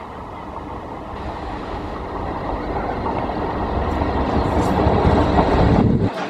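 A MEMU electric multiple unit train running into the station and coming alongside, its running sound growing steadily louder as it nears. The sound drops suddenly just before the end.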